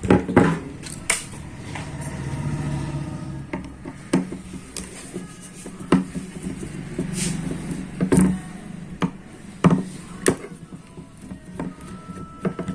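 Irregular clicks and knocks of a screwdriver and small metal parts as a microwave's cooling-fan motor is unscrewed and taken apart to get at its rotor, over a low steady hum.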